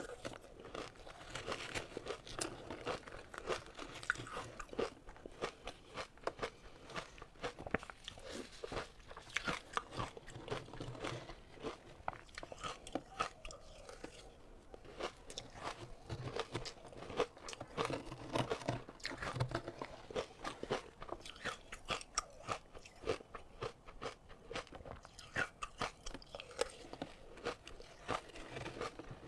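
Close-miked ice being bitten and chewed: a dense, irregular crunching and crackling of breaking ice that goes on without a pause.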